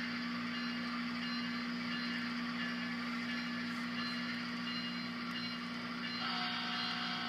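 DCC sound decoder in an HO scale Intermountain GE ES44AC model locomotive, playing a diesel engine's steady running sound through the model's small speaker. Near the end a horn sounds for about a second and a half.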